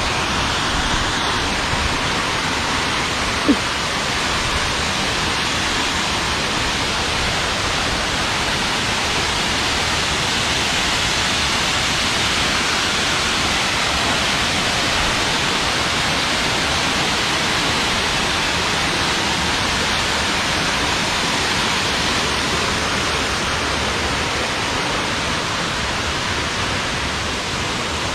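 Waterfall's falling water making a steady, unbroken rush, with one brief tick about three and a half seconds in.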